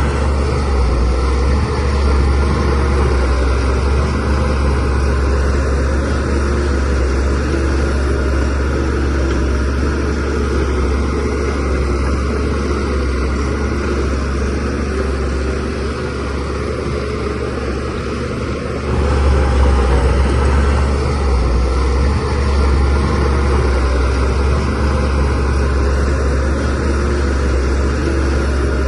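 DH17C3PRO bulldozer's diesel engine running steadily at work, with a deep low drone; it grows louder about 19 seconds in, then settles again.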